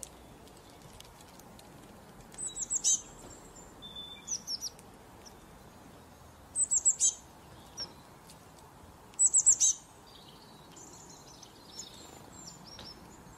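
Bird chirping: several quick runs of four or five short, high, falling notes, over a faint steady hiss.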